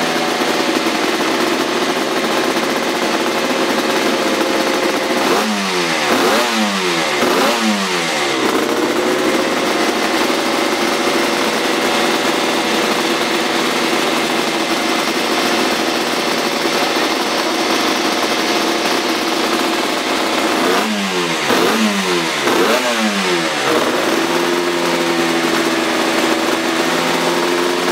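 Kawasaki KR500 two-stroke square-four racing engine running on the stand, warming up after being started. It idles steadily and is blipped three times in quick succession about five seconds in, then three more times about twenty-one seconds in.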